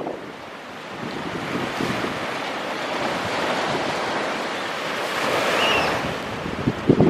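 Ocean surf rushing up the beach, swelling to a peak about five to six seconds in and then easing. Strong wind buffets the microphone near the end.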